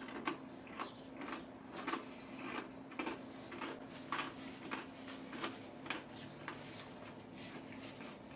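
Crunching from chewing extra-crispy cold fried chicken with dentures: a short crisp crunch about twice a second.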